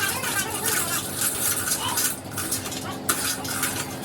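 Metal clinking and scraping, as of steel tools and parts being handled, with a sharp click about three seconds in.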